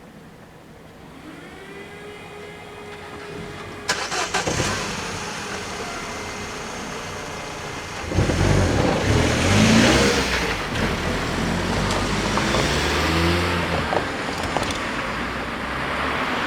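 Road vehicles driving across a railway level crossing: engines accelerating and passing, growing louder about eight seconds in. A sharp clunk comes about four seconds in, with a few lighter knocks later.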